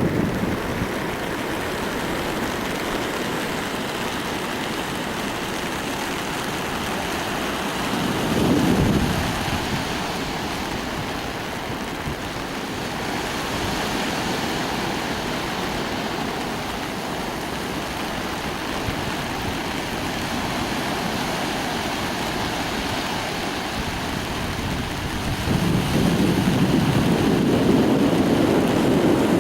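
Steady rain hissing, with a brief low rumble about eight seconds in and a longer, louder low rumble near the end.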